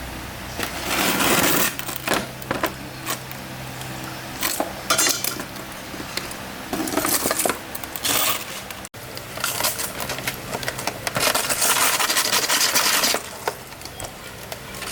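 Hard objects clinking and scraping against each other in several spells, with a faint steady hum underneath.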